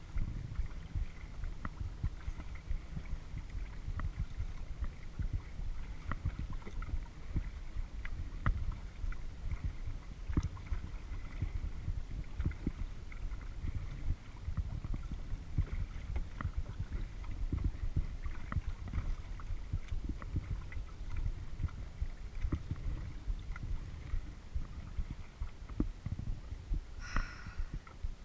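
A kayak being paddled: water sloshing against the hull, with a steady low rumble and many small irregular knocks from the paddle and boat. A brief high chirp near the end.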